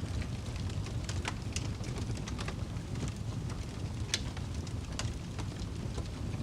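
Fire crackling: a steady low rumble with irregular sharp pops, the loudest about four seconds in.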